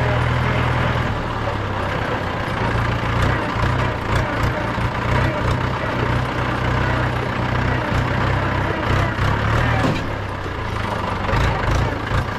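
A 2010 Mahindra 475 DI tractor's 2.7-litre four-cylinder diesel engine running on the move. The low engine note is steady for about a second, then turns uneven, with scattered knocks and rattles.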